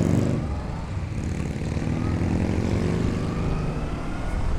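Big motorcycle engine running with a deep rumble. Its pitch drops in the first second, then climbs steadily as the revs rise, and climbs again near the end.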